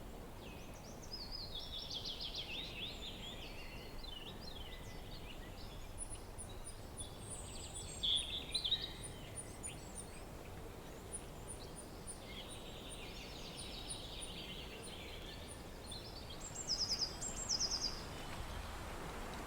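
Several wild birds singing and chirping over a steady low hiss of wind. A thin, very high note repeats in quick runs through the middle, and the loudest calls come about 8 seconds in and again near the end.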